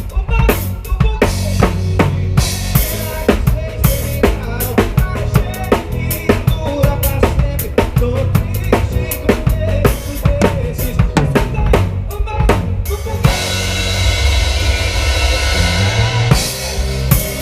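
Live band instrumental break led by a drum kit playing a fast, driving groove of bass drum, snare and rimshots. About thirteen seconds in, the drum strikes drop out for about three seconds under a sustained ringing wash with held notes, then the groove comes back.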